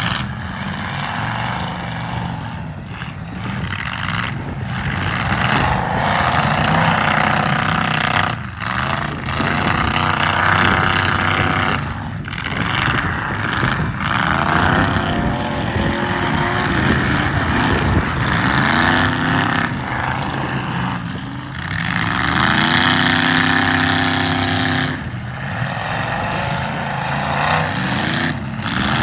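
Demolition derby cars' engines revving hard. The pitch climbs and falls again and again as the cars accelerate, back off and accelerate again.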